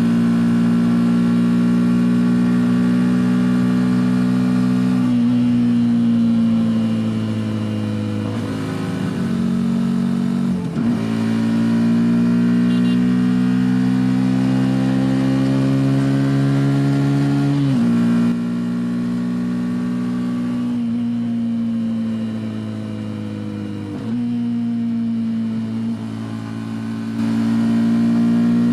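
Yamaha FZ V3 motorcycle's single-cylinder engine running under way, its note steady with slow rises and falls in pitch and a few sudden steps up or down.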